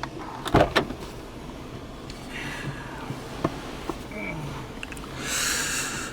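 Two loud knocks, then a few light clicks, then about a second of rushing noise near the end: handling noises inside a car.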